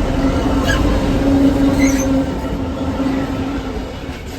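Double-headed freight train passing close by: a heavy rolling rumble with a steady hum and a few faint wheel squeaks. The hum fades out about three and a half seconds in as the noise dies down.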